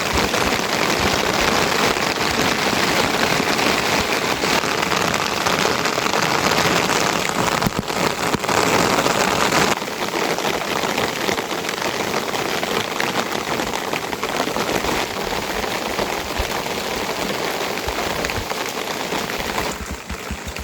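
Heavy rain falling steadily, a dense even hiss; it gets a little quieter about ten seconds in and again near the end.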